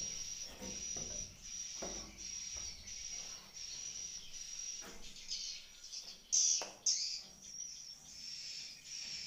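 Swiftlets twittering: a high chirping call repeating about twice a second, with two louder calls a little past halfway.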